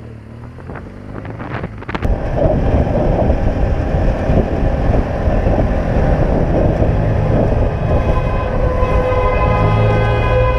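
Vehicle on the move with heavy wind rushing over the microphone, loud from about two seconds in after a few sharp clicks. A steady held tone joins near the end.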